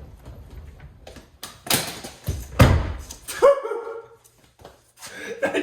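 Plastic fender liner being handled: about three heavy thuds and knocks in the middle, then a short squeak that falls away.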